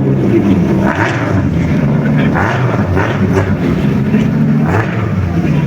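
Engines and exhausts of JDM sports cars running loudly as they drive off, the engine note shifting up and down.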